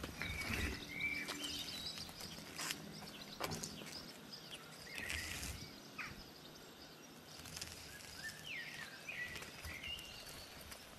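Open-air ambience with short bird chirps now and then, over a low background hiss, and a couple of sharp clicks.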